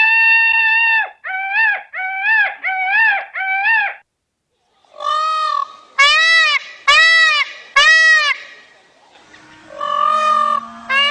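Peacock calling repeatedly, loud and high. One long call is followed by four short calls in quick succession, then after a pause by two more runs of short calls.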